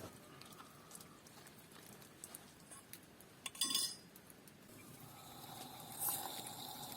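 Metal cookware or utensils clinking: scattered light taps, then one louder ringing clink about halfway through. A steady high tone sets in near the end.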